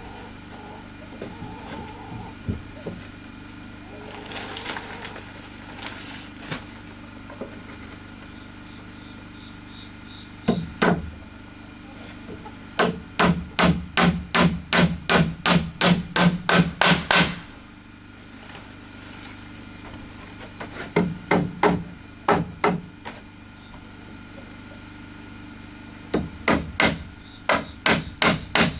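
Hammering on wood while building wooden bunk beds: quick runs of sharp blows, about three a second, in several bursts with pauses between. Before the first burst there are scattered lighter knocks and handling sounds.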